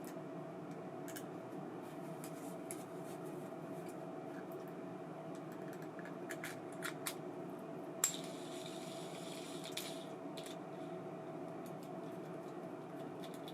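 Light clicks of small metal parts being handled over a steady hum. About eight seconds in come a sharp click and a short hiss.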